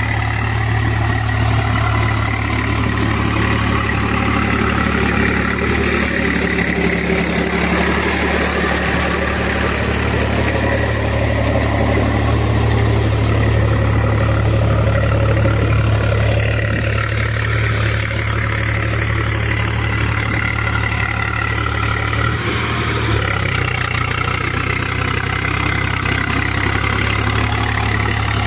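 Swaraj 735 FE tractor's three-cylinder diesel engine running steadily as it pulls through soft paddy-field mud on full cage wheels. Its low hum shifts slightly about three-quarters of the way in.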